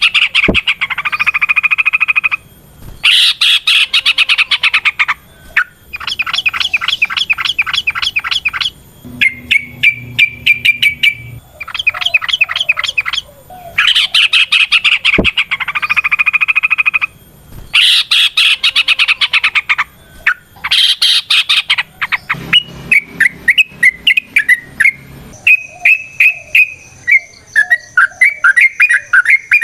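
Yellow-vented bulbul (trucukan) singing in long, fast bubbling phrases, each lasting two to three seconds with brief pauses between. Near the end the song breaks into shorter, quicker chattering notes.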